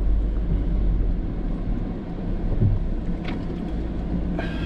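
Suzuki Jimny 4WD crawling slowly over an obstacle on a rough bush track: steady low engine and drivetrain rumble, with a short knock about two and a half seconds in and a light click soon after.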